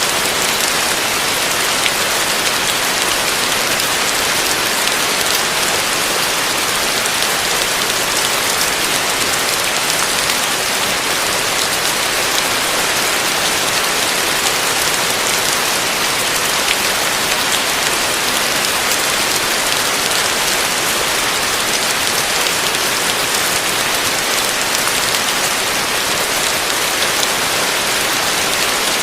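Heavy rain falling, a steady even hiss with faint ticks of single drops scattered through it.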